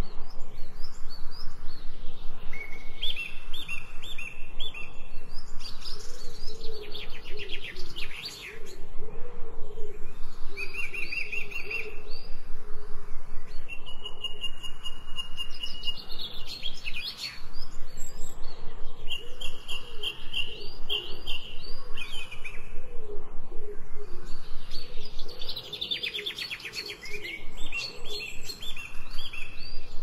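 Songbirds singing: repeated high trilled phrases, some held on one pitch for a second or two and others falling quickly, over a lower wavering call.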